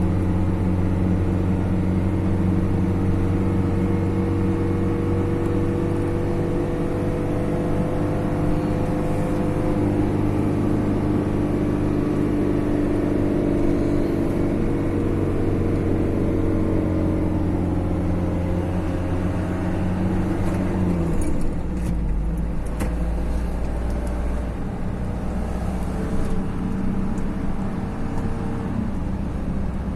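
Road vehicle's engine running steadily while driving. About two-thirds of the way through its note drops lower and stays there.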